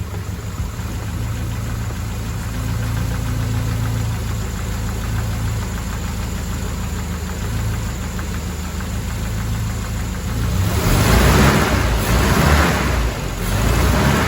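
Mercedes-Benz W124 230E's 2.3-litre four-cylinder engine running steadily at idle. About ten seconds in, a louder hissing noise comes in and surges about three times over the engine.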